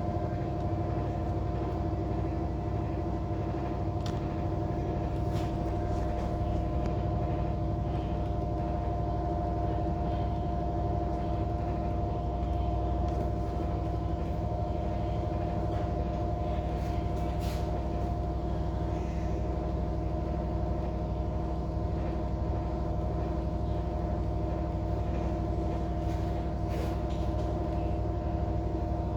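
Air conditioner running with a steady mechanical hum, several steady tones over a low rumble that sounds engine-like.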